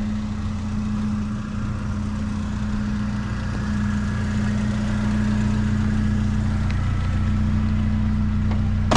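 Truck engine running steadily, with an even low hum. A sharp click or knock comes right at the end.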